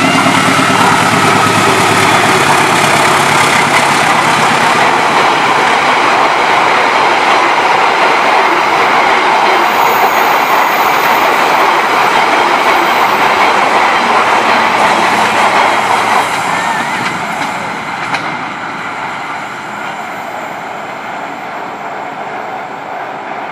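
CC 206 diesel-electric locomotive passing close by with its engine running, followed by a long rake of passenger coaches rolling past with a steady clatter of wheels on rail. From about sixteen seconds in the noise fades as the train moves away around the curve.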